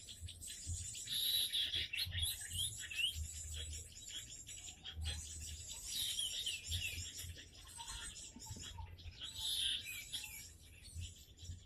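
Small songbirds chirping and twittering in quick, high-pitched calls and short rising whistles that run on almost without a break.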